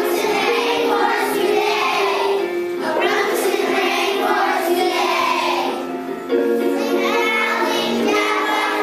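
A group of children singing a song together over musical accompaniment, with a short dip in the singing about six seconds in before it picks up again.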